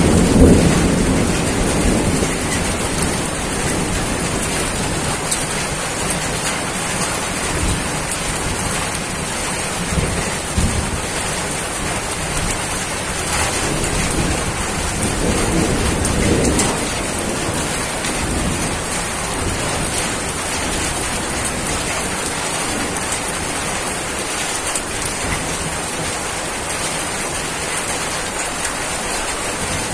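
Steady rain falling, with low rolls of thunder: one at the start that fades out, and another about halfway through.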